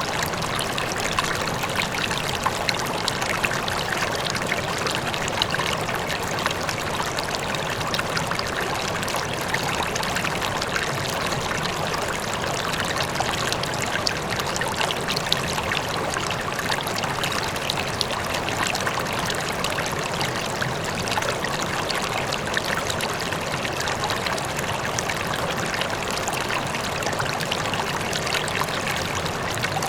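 River water flowing steadily, a continuous rushing and babbling with small splashes, with a faint waterfall blended in.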